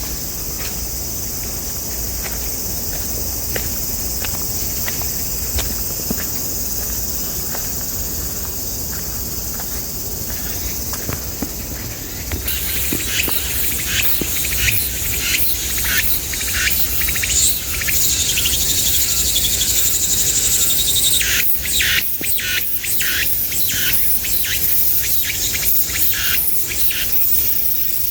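Summer insect chorus, a steady high shrill. About halfway through it switches to a louder, rasping buzz broken by rapid pulses.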